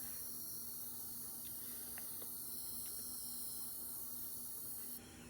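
Continuous-mist spray bottle releasing a steady fine hiss that cuts off suddenly near the end, with a few faint ticks.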